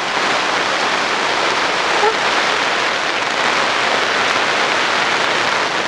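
Heavy rain drumming steadily on the plastic cover of a polytunnel.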